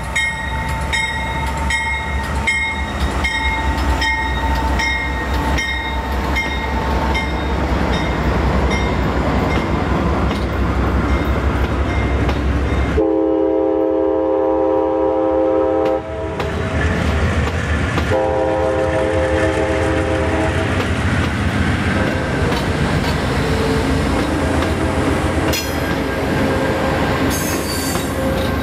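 Train rolling past with its wheels clicking over rail joints about twice a second. About halfway through, a diesel locomotive's multi-chime air horn sounds a long blast, then a shorter one about two seconds later.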